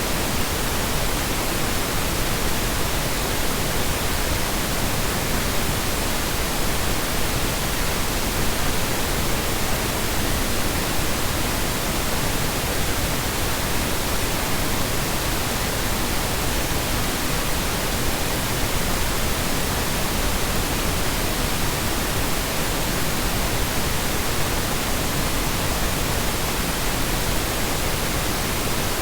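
Steady synthesized Brownian noise: a continuous, even rushing hiss with no changes in level and no other sounds.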